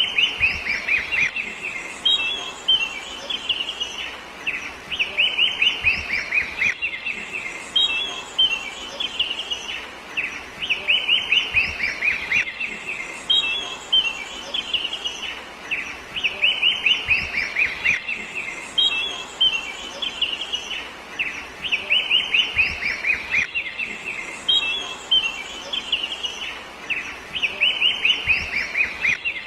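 Bird song: rapid runs of short, high, falling chirps, the same phrase coming round again every five to six seconds.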